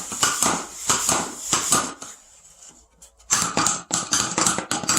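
Rummaging in a shipping box: quick, irregular rustling and light knocks of packaging and parts being moved about. It eases off about two seconds in and starts up again about a second later.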